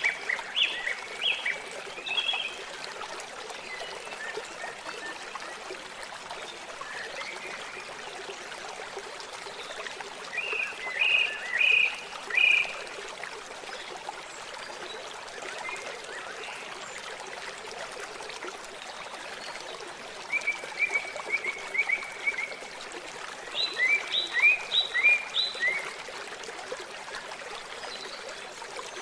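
Steady sound of running water, with a small bird singing short phrases of quick high notes that come back every ten seconds or so, including a fast even trill about two-thirds of the way through.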